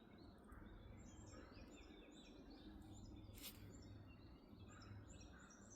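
Faint bird chirping: many short, high notes in quick succession over a low rumble, with a single sharp click about three and a half seconds in.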